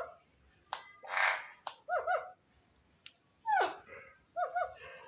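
Pet parrot calling: short hooked chirps in quick pairs, a harsh squawk about a second in, and a long falling whistle past the middle, over a steady high-pitched tone.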